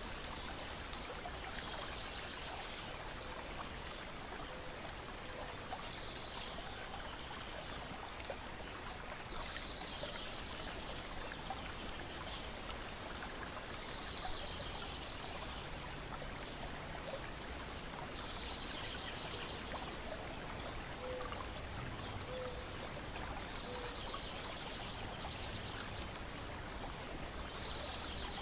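Lake water lapping and splashing steadily against the shore and deck, with a bird's trilling call coming back every four seconds or so and a few faint pops of a wood fire.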